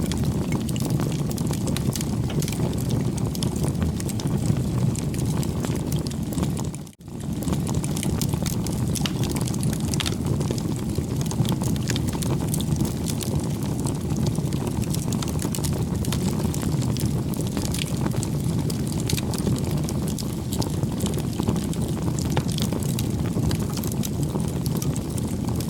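Bonfire burning: a steady low rush of flame with frequent small crackles and pops of burning wood. The sound cuts out for a moment about seven seconds in.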